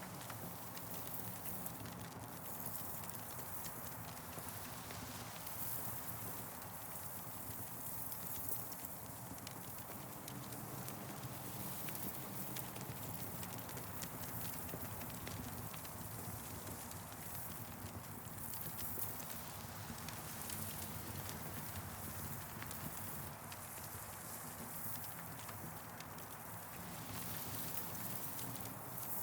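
Campfire crackling: frequent, irregular sharp snaps and pops over a steady low rushing background.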